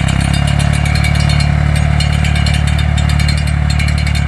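Farm tractor engine running steadily up close while pulling a corn planter, with a fast, even clicking over the engine note.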